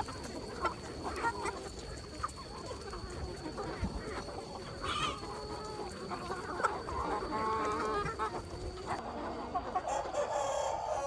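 A flock of chickens clucking and calling, with a rooster crowing near the end.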